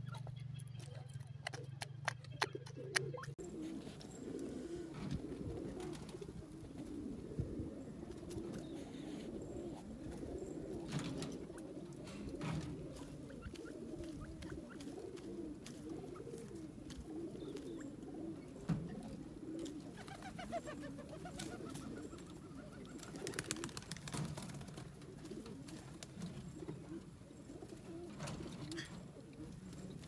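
A steady low hum with rapid scratching clicks for about the first three seconds, then continuous low, dove-like cooing of birds.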